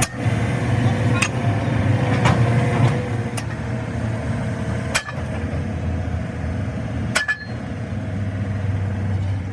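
An engine running steadily with a low hum, with several sharp metallic knocks spread through it.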